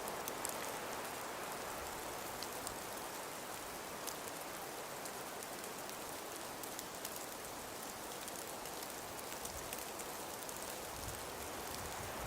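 Steady hiss of wind-driven snow, with fine ticks of grains striking a surface scattered through it. A low gust of wind comes in near the end.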